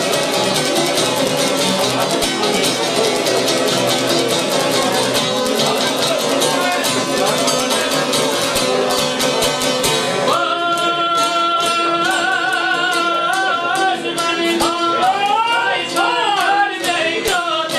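Albanian folk music on the qifteli, a fast plucked string line; about ten seconds in a singer comes in with long held, ornamented notes over a steady drone.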